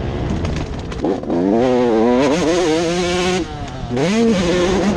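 Motocross motorcycle engines revving, rising and falling in pitch as the bikes accelerate. One long rise starts about a second in, and a second rev follows near the end.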